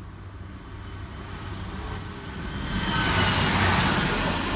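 A diesel passenger train approaching and passing close by, its rumble and rail noise growing louder to a peak about three seconds in.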